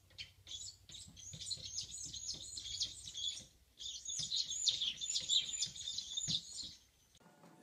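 Small bird chirping and twittering in fast high-pitched runs, two bursts with a short break about halfway.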